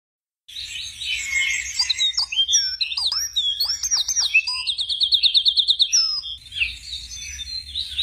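Several songbirds singing at once, starting about half a second in: varied whistled notes sweeping up and down, and a rapid trill of about ten notes a second around five seconds in.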